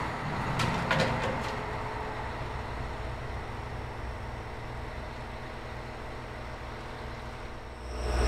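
Diesel railcar sounds: a few sharp clacks in the first second and a half, then a low steady engine hum. Near the end a much louder engine sound comes in.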